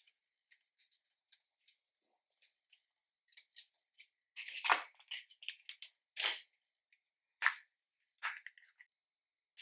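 Slime being mixed and squeezed by hand, making a run of short sticky clicks and pops. They grow louder and denser about halfway through.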